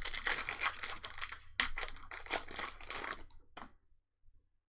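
Crinkling and tearing of a trading-card pack wrapper being opened, dense and crackly, dying away about three and a half seconds in.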